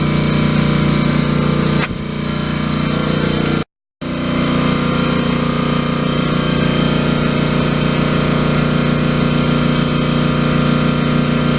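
Toyota 1ZZ-FE 1.8-litre four-cylinder VVT-i engine running steadily. The sound cuts out completely for a moment just before 4 s in, then carries on unchanged.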